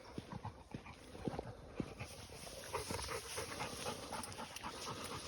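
A dog panting, with a run of short clicks and a few low thumps that get busier about two seconds in.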